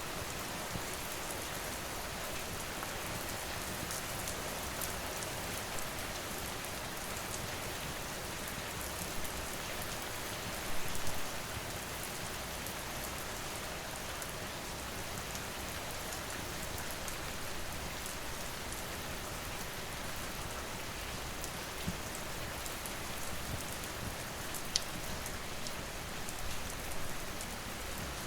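Steady rain falling, with scattered sharp clicks and pops of a crackling wood fire mixed in and a brief louder patch about eleven seconds in.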